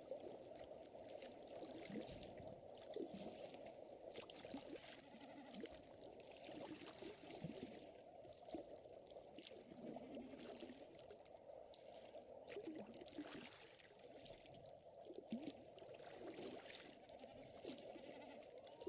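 Faint ambience of gently lapping water with a fire crackling, its crackles scattered irregularly throughout.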